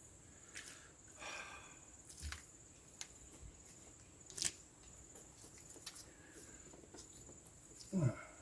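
Faint handling noises: a few sharp clicks and a brief scrape of plastic parts being fitted during a cabin air filter change, over a thin steady high whine.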